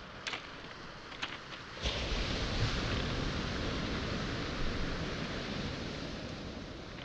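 A few footsteps clicking on beach pebbles, then about two seconds in a wave breaks on the pebble shore and its wash rushes over the stones, slowly easing off.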